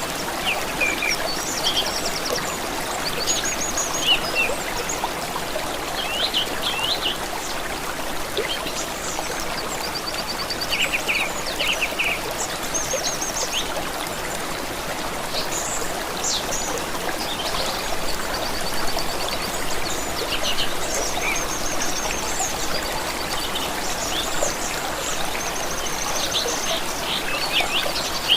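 A steady trickle of running water from a stream, with several songbirds calling and trilling in short high phrases throughout.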